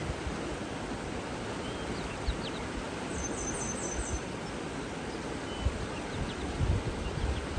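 Steady rush of running water with small birds chirping: scattered short high chirps, and a quick run of about five very high notes about three seconds in. Low wind rumbles on the microphone come in near the end.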